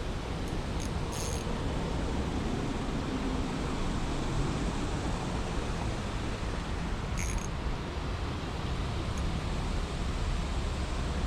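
Steady rushing outdoor noise of wind on the microphone and moving creek water, with a few short high chirps about a second in and again around seven and nine seconds.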